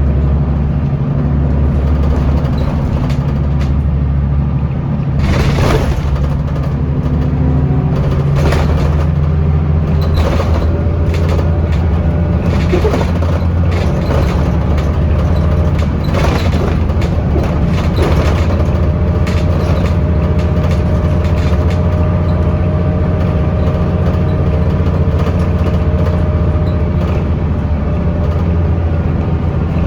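A Scania L94UB Euro 2 city bus under way, heard from inside: the engine and drivetrain drone steadily, with frequent short rattles and knocks from the body. The engine note shifts about five seconds in.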